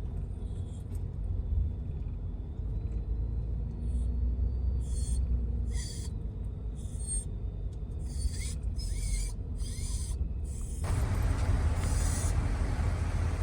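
Low, steady rumble of a loaded Ford F350 dually pickup running at low speed, heard from inside the cab, with a few faint light clicks. About eleven seconds in, a broader rush of noise comes in suddenly and holds.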